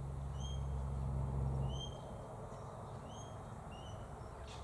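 A bird giving four short, high whistled chirps, spaced out over a few seconds, with a low steady rumble in the background that fades about two seconds in.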